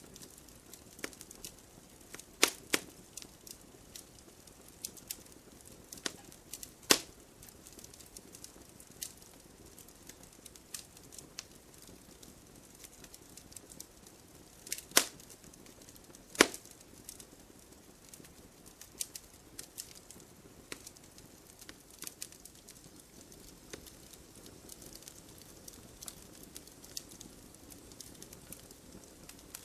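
Wood bonfire crackling: irregular sharp pops and snaps over a soft steady hiss, with a few much louder snaps among many small ticks.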